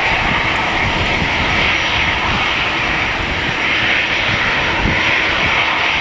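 Airliner engines running with a steady noise, over an uneven low rumble of strong wind on the microphone.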